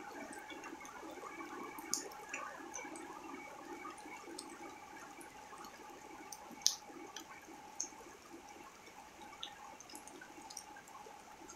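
Rain falling on a wet paved courtyard and splashing into puddles, with scattered sharp drops standing out. It eases a little as it goes.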